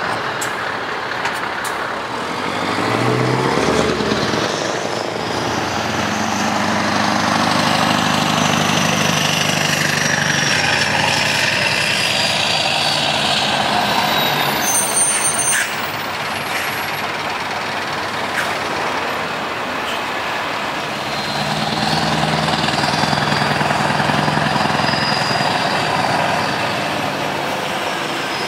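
Scania V8 truck engines with open, straight-through exhaust pipes running and passing by, the deep engine note swelling twice, first about five seconds in and again near the end.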